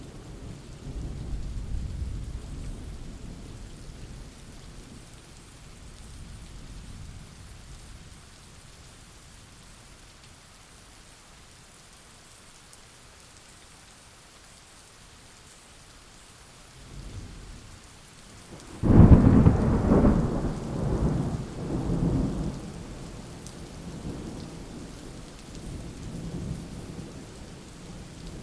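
Thunderstorm: steady rain with rolling thunder. A low rumble fades over the first few seconds and the rain runs on alone for a while. About two-thirds of the way in, a sudden loud thunderclap rolls on for several seconds, then dies into lower, softer rumbles.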